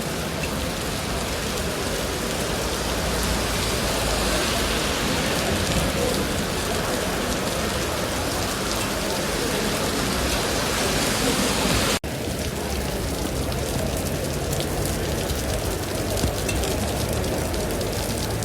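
Heavy rain falling, a steady dense hiss of drops on surfaces. It breaks off for an instant about twelve seconds in, then carries on.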